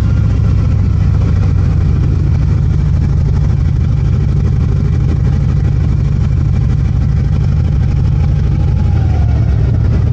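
Harley-Davidson motorcycle's V-twin engine running steadily.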